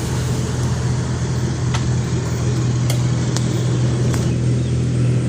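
TVS XL Super moped engine running steadily, with a few short sharp clicks about two, three and four seconds in.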